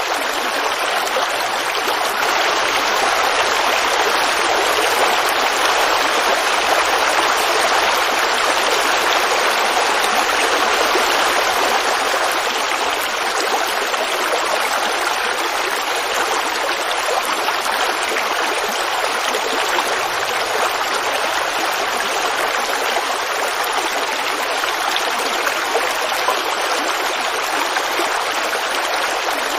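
Forest creek babbling over rocks: a steady, unbroken rush of running water.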